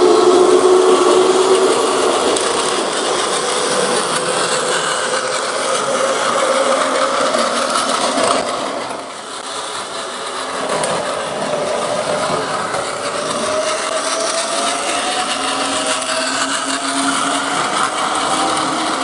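A train running, its motor whining in tones that glide slowly up and down in pitch over a steady rattling hum. The sound dips briefly about halfway through.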